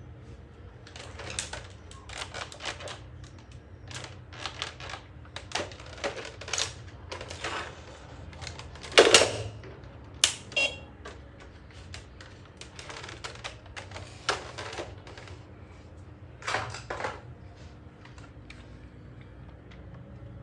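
Irregular clicking and clacking, with the loudest knocks about nine and ten and a half seconds in, over a faint steady low hum.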